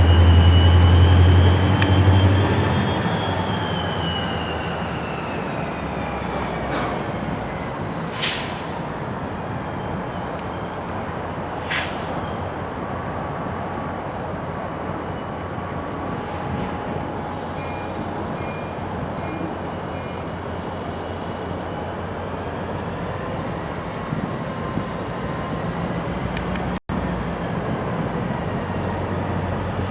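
Diesel locomotive running close by, loudest in the first few seconds and then settling to a steady rumble of moving rail equipment, with a few brief high squeaks.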